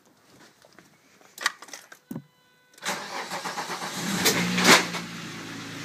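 A Volkswagen AAA 2.8-litre VR6 engine starting: a few clicks, then cranking that catches after about two seconds, with two loud bursts as it fires before it settles into a steady idle. It runs with its exhaust manifolds loose, so a little exhaust leak is in the sound.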